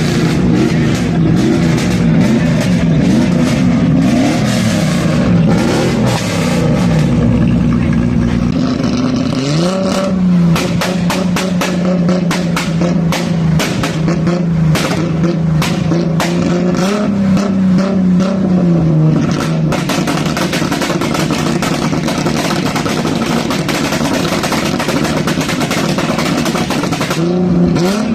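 Tuned car engine revving loudly. The pitch wanders at first, climbs about a third of the way in and is then held at high revs, with a brief extra rise and fall past the middle and another climb near the end. Sharp crackles sound over it throughout.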